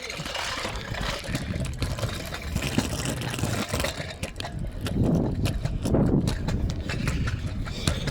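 Vehicle engine running in street noise, with many short knocks and clicks on top.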